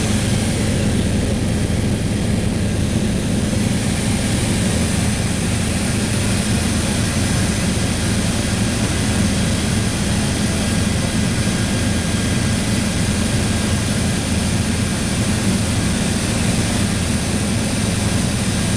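Helicopter engine and rotor running steadily in flight, heard from inside the cabin as a loud, constant drone.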